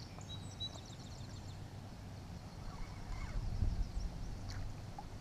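Faint bird song: a quick high trill of rapid chirps in the first second or so, with a low rumble swelling briefly past the middle.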